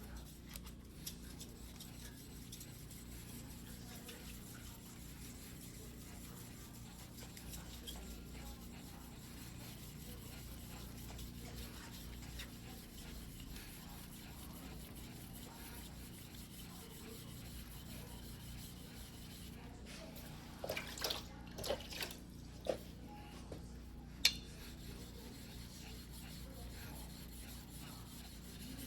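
Quiet rubbing of a single-bevel sashimi knife being hand-sharpened on a wet whetstone, over a steady low hum. A few short, sharp clicks come about three quarters of the way through.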